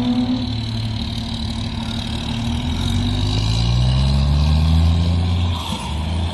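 Toyota Corolla's 20-valve four-cylinder engine running under way. Its note eases down at first, then rises steadily for a couple of seconds as the car accelerates, with a brief dip near the end.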